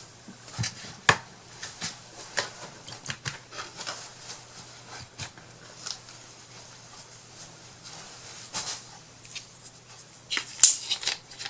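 Scattered light clicks, taps and soft rubbing from small craft supplies being handled on a work table, with a sharper click near the end, over a faint steady hum.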